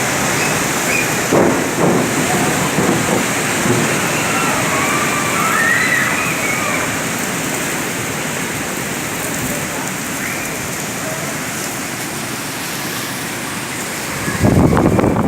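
Steady rain falling hard, a dense even hiss of drops. Near the end a gust of wind buffets the microphone.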